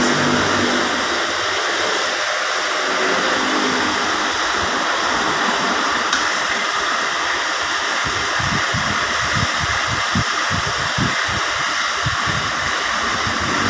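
Steady fan-like hiss, with a run of dull low knocks starting about eight seconds in.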